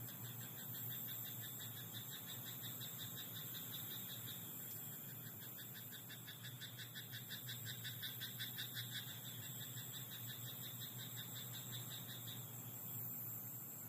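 Frogs calling in a rice paddy at night: a steady high trill, joined from about five to nine seconds in by a fast run of pulsed, rattling croaks.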